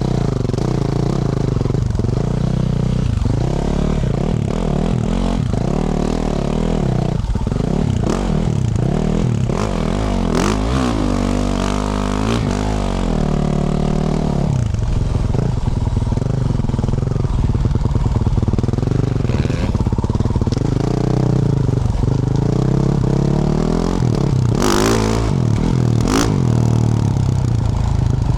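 Yamaha YZ450F's single-cylinder four-stroke engine through a Yoshimura RS-12 exhaust, revving up and dropping back again and again as the bike is ridden through the gears. A few sharp knocks and clatter cut through at times.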